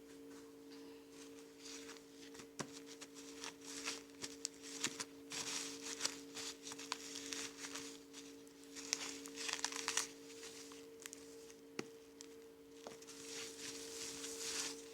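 Crinkling and rustling handling noises in uneven bursts with sharp clicks, over a steady low two-note hum.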